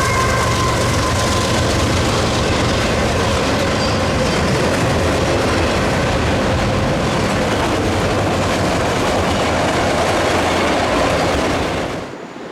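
A long CSX freight train's cars rolling past close by at speed, a steady loud rush of steel wheels on rail, with a faint high wheel squeal fading in the first second. The sound drops off abruptly near the end.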